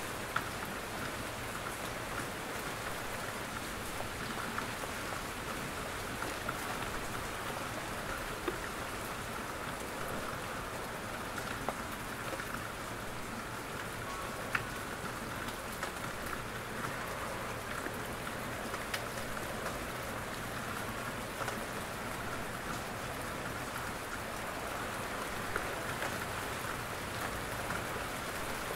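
Steady rain falling in a forest, with scattered louder single drops pattering from the trees.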